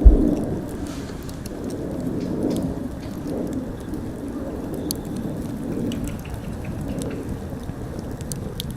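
Bonfire crackling, sharp pops scattered over a steady rushing noise, with one heavy thump right at the start.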